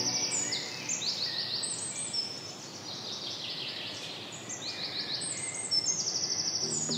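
Songbirds singing: many quick chirps that fall in pitch, repeated in clusters, over a light steady outdoor background hiss.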